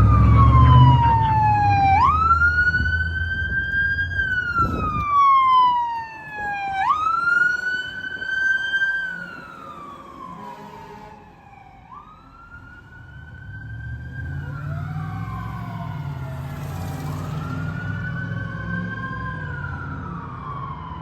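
Fire truck siren wailing. Its pitch jumps up, holds, then slides down in slow cycles of about five seconds, over the low rumble of the truck's engine. It fades somewhat around the middle, and in the second half a second, fainter wail overlaps it.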